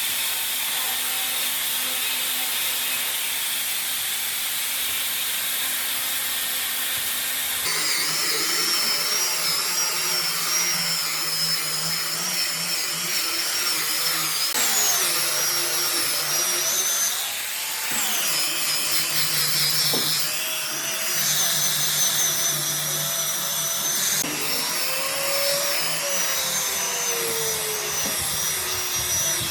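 Electric power tool running in a woodshop. A steady high hiss changes about eight seconds in to a high whine over a low hum, and the pitch dips briefly a few times.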